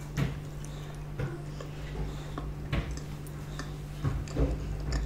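Close-miked chewing of a chicken-nugget shawarma wrap: irregular short wet mouth clicks, roughly one a second, over a steady low hum.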